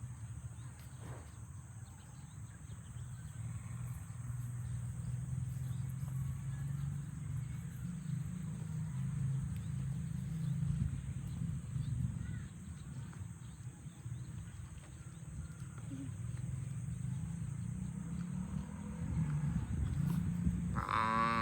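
Cattle lowing: low, drawn-out, closed-mouth moans that swell and fade, with a full moo starting at the very end.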